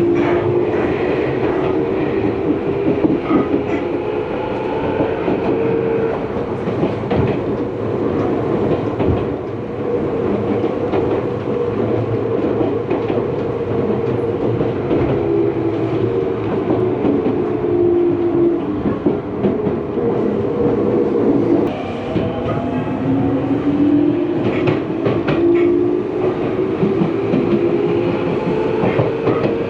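Electric commuter train of the Tokyu Ikegami Line running, its traction motors whining in a pitch that rises, holds and falls, then cuts off suddenly about two-thirds of the way through and climbs again, over a steady rumble and clack of wheels on the rails.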